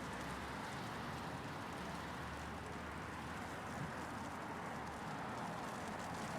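Steady city traffic ambience: a low hum of vehicles with an even hiss of hail falling over it, with no single event standing out.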